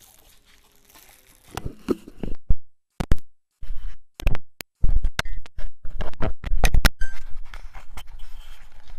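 Irregular knocks, clicks and scrapes of hand tools and metal parts being handled on a tractor diesel engine, with a few brief drop-outs to silence.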